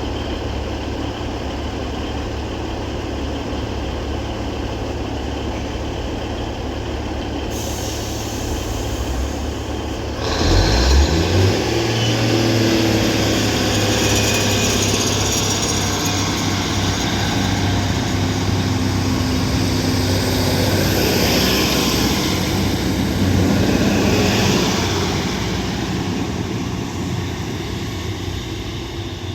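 Diesel multiple unit (Northern Class 150 and Class 156) departing: the underfloor diesel engines tick over, then open up about ten seconds in with a rising note. They run at a steady higher pitch as the train pulls away, easing off near the end.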